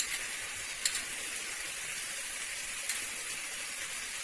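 Chicken pieces frying in oil and masala in a hot kadai: a steady sizzle with a couple of sharp ticks.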